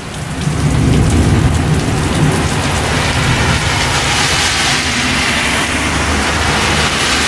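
Heavy thunderstorm rain pouring onto pavement, a steady dense hiss with a low rumble underneath. Around the middle, a car drives through the water on the road, adding tyre hiss.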